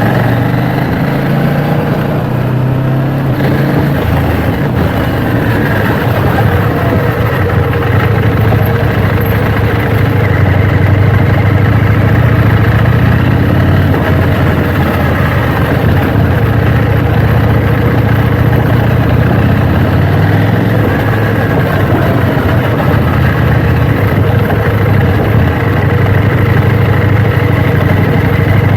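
KTM Duke 790's parallel-twin engine running steadily, its pitch changing little.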